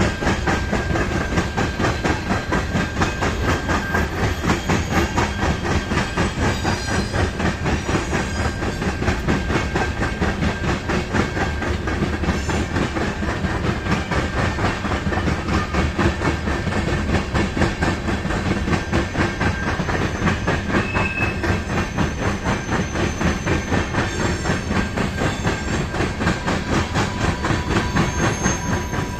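CN freight train of tank cars rolling past at a grade crossing: a steady rumble of steel wheels on rail with fast, even clicking as the cars pass over the joints.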